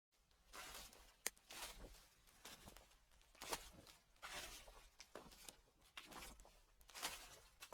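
Quiet footsteps crunching and rustling through dry fallen leaves at a slow, even walking pace, with a sharp click a little over a second in.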